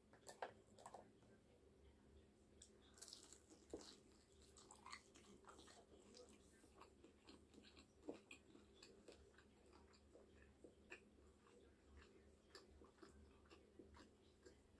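Quiet, close-miked chewing of a fried chicken wing: small wet smacks and light crunches, several a second.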